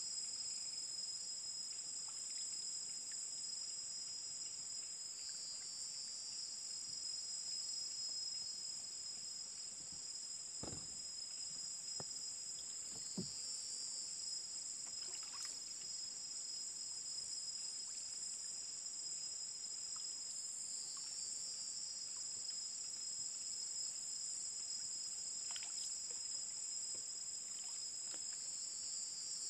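Steady, high-pitched chorus of forest insects, with a second insect call swelling briefly about every seven and a half seconds. A few soft knocks from paddling the small wooden boat come through a little over a third of the way in.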